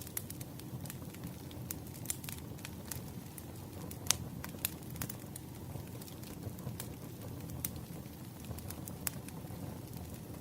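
Burning firewood crackling and popping over a low steady rumble of flame, with irregular sharp snaps, the loudest about four seconds in.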